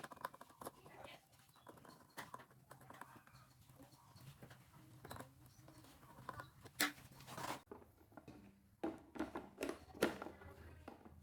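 Scattered clicks and knocks of hands working on the fan's wiring, two sharper knocks standing out, over a faint low hum that cuts off abruptly about two thirds of the way through.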